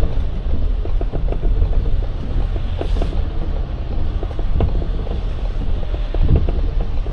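Box truck driving, heard inside the cab: a steady low road and engine rumble with frequent small creaks and rattles from the cab.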